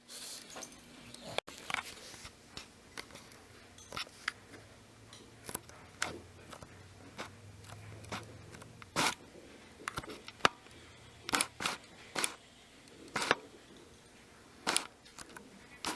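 A series of short sharp clicks and taps at irregular intervals, roughly one or two a second, over a faint low hum that fades out about halfway through.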